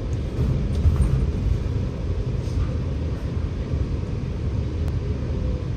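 Scania K94UB bus heard from inside the cabin while under way: a steady low engine and road rumble. There are a few light knocks about a second in.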